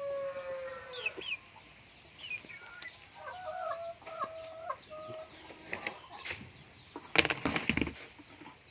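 Chickens calling: a rooster's crow trails off, falling in pitch, in the first second, then short clucking calls in the middle. A brief rustling burst comes about seven seconds in.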